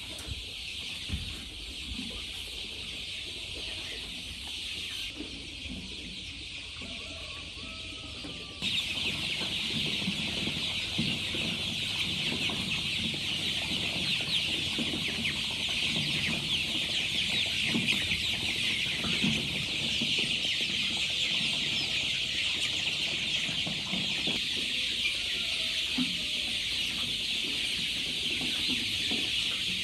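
Many chickens clucking at once, with a dense high chatter of calls throughout; the sound gets suddenly louder about nine seconds in.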